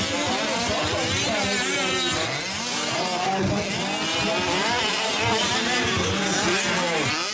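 Several fifth-scale RC race trucks' small two-stroke gas engines buzzing, their pitch repeatedly rising and falling as they throttle up and back off around the track.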